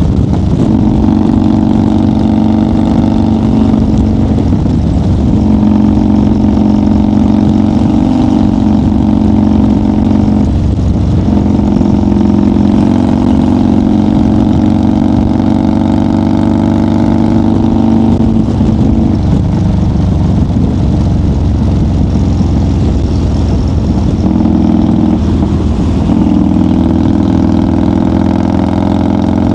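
1990 Harley-Davidson FXR's air-cooled Evolution V-twin running steadily at highway speed, loud and close. Its note drops briefly and comes back about four times as the throttle changes.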